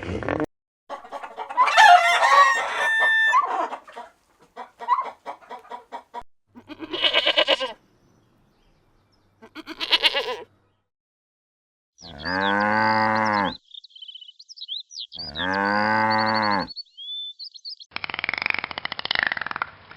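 A string of separate animal calls, including two long, strongly pitched crows from a rooster, one after another about three seconds apart, with small birds chirping between them.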